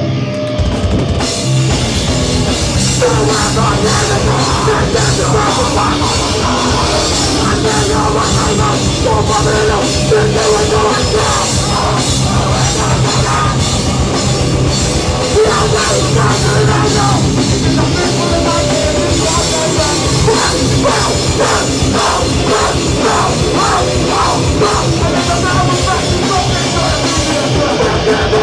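A hardcore band playing live and loud, with distorted electric guitars, bass and drum kit. A lone guitar is joined by the full band about a second in.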